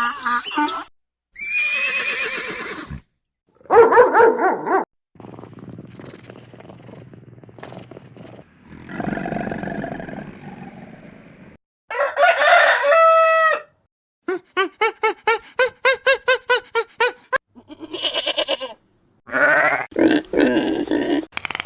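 A string of separate animal calls, one short clip after another, among them a rooster crowing and other farm animals.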